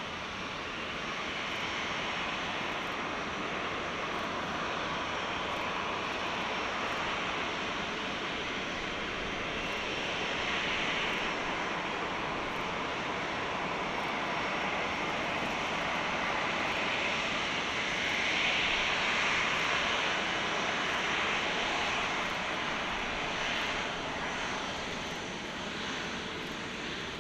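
Jet engines of an Airbus A350-900, Rolls-Royce Trent XWB turbofans, running with a steady rushing noise that swells a little about two-thirds of the way through.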